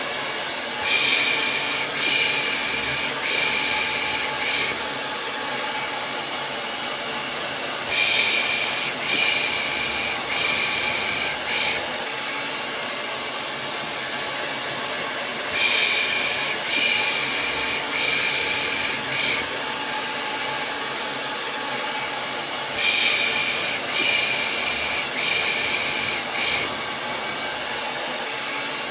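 Hair dryer running with a steady whirr, overlaid by a person's rhythmic "pış pış" shushing: sets of four hissing shushes about a second apart, the set coming back every seven seconds or so. This is a white-noise loop for lulling a baby to sleep.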